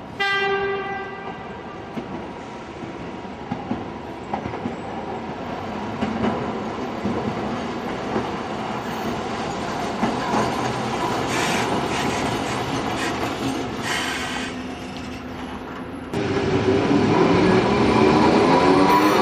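Tokyo Toden 7500-series tram with nose-suspended traction motors: a short tone at the start, then running noise with a few clicks of wheels on rail joints. About three-quarters of the way through it gets louder and the motors' gear whine rises in pitch as the tram accelerates.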